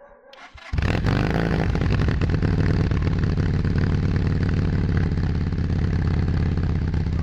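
Keeway SCR 250V's two-cylinder V engine being started: a brief whir from the starter, then the engine catches about a second in and settles into a steady, loud idle.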